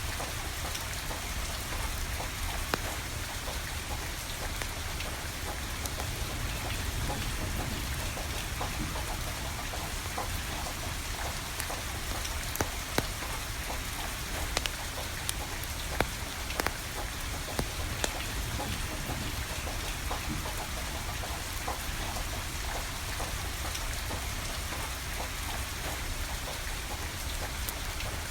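Steady rain falling, with a wood fire crackling and giving sharp pops now and then, a few louder pops about halfway through.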